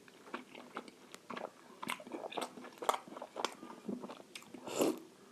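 A person chewing a large momo dumpling dipped in sauce, close to the microphone: irregular wet mouth clicks and smacks, loudest near the end.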